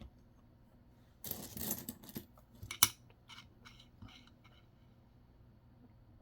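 Coins being handled on a table: a short scraping rustle about a second in, then a sharp click and a few lighter clicks.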